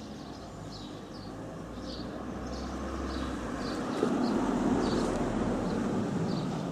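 A small bird chirping over and over, about two chirps a second, over a broad rumbling noise that swells to its loudest about four seconds in and then eases off, as of a passing vehicle.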